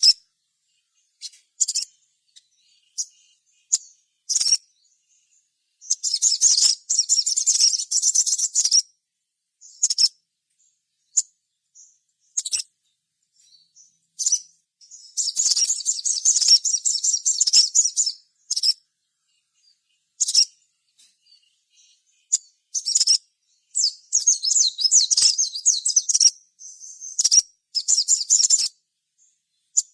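Crimson sunbird (sogon, sogok ontong) singing. Long bouts of rapid, high-pitched twittering, each a few seconds long, alternate with single sharp chips.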